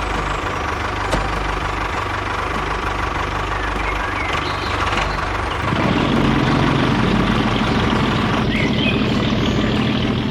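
Engine idling with a knocking beat, getting louder about six seconds in.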